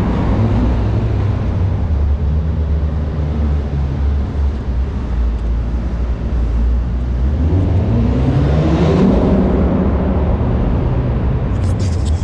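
Audi S4 3.0 TFSI V6 engine and exhaust running steadily, then revving up through the gears about seven seconds in and easing off near the nine-second mark, with a high whine rising and falling at the peak.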